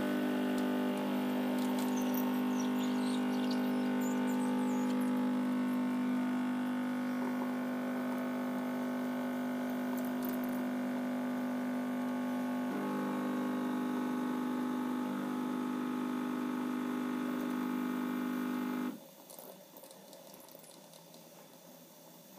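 Bosch Tassimo Fidelia pod coffee machine's pump running with a loud, steady hum as it pushes hot water through an espresso pod. Its tone shifts a little about two-thirds of the way through, and it cuts off suddenly a few seconds before the end.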